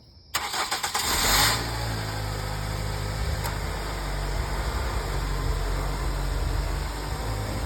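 Car engine idling steadily with a low, even hum. It follows a brief noisy, rattling burst in the first second or so.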